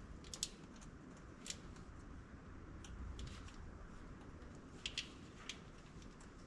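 A few faint, sharp clicks and light taps, scattered singly and in quick pairs, over a low steady background hiss.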